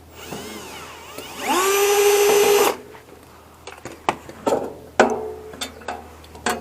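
Power drill-driver whining as it spins up, running steadily at full speed for about a second, then stopping abruptly. Scattered clicks and knocks of handled metal parts follow.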